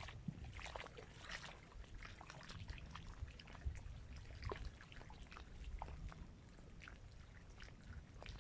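Small waves lapping against the shore of a dam reservoir, a steady run of irregular little splashes and trickles over a low, even rumble.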